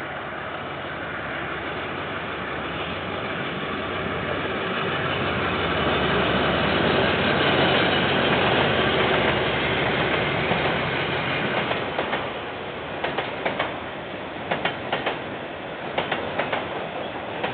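A KiwiRail train passing, heard through a security camera's microphone. The rumble of the train builds to its loudest about halfway through, then the wheels click over the rail joints in quick regular pairs for the last few seconds.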